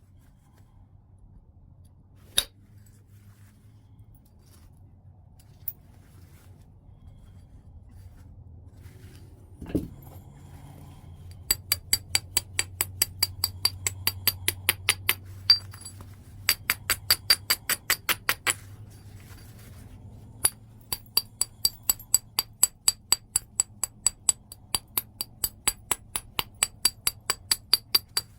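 White chert being struck in rapid light taps during flintknapping: runs of sharp, clinking clicks at about four a second, each with a brief high ring, broken by short pauses. A few scattered clicks and one duller thud come before the runs start.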